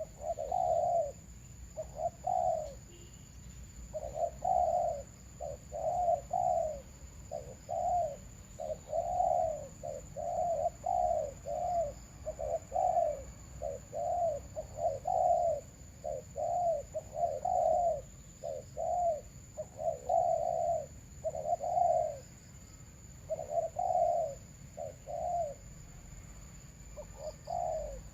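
Doves cooing: a long run of short, repeated coo notes in quick phrases, pausing briefly now and then. These are decoy doves calling to lure wild doves during bird trapping.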